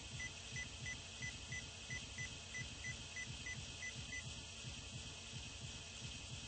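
A rapid series of short, high electronic beeps, about three a second, that stops about four seconds in, over a steady low rumble.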